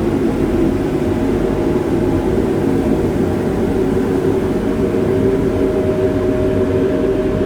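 Road-cleaning street sweeper running steadily and very loud: a dense, unbroken machine drone with a constant tone held above it.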